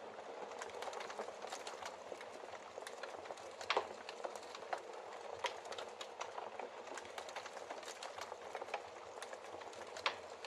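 Wood logs burning in a fireplace: a steady hiss of flame with irregular sharp crackles and pops from the wood, two louder pops near the middle and near the end.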